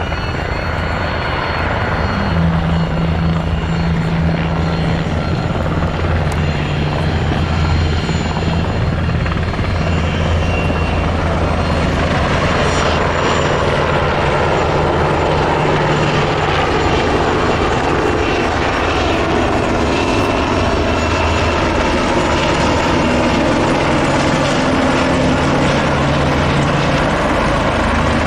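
Military helicopter in flight, its rotor and turbine engines running loudly and steadily, with a low hum from the rotor under a broad rushing noise.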